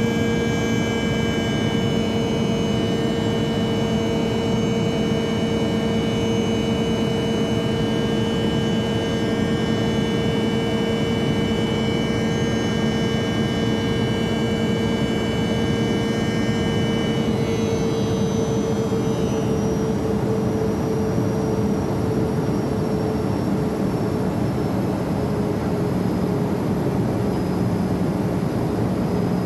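Learjet jet engines heard from inside the cabin during takeoff: a steady rushing roar with a low hum and several high whining tones. About two-thirds of the way through, the high whines shift and fade, and one slides slowly lower.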